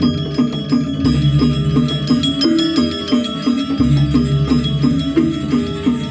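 Balinese gamelan playing: bronze metallophones strike quick, running interlocking notes over a low sustained gong tone.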